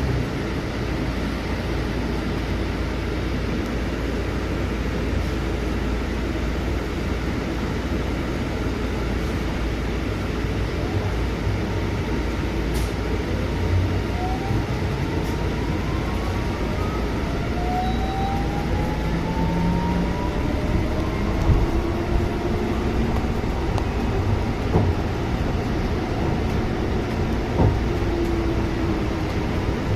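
Cabin of a Scania C250EB bus under way: steady engine and road rumble. In the second half, drivetrain whines rise in pitch as the bus gathers speed, and a few knocks and rattles sound near the end.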